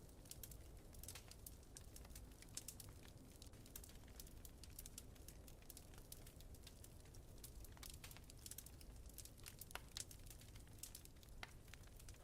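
Faint crackling wood fire in a fireplace: frequent small snaps and pops at irregular intervals over a low, steady rumble.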